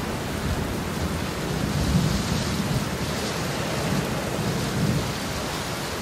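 Steady rain with low rumbles of thunder that swell about two seconds in and again near the end.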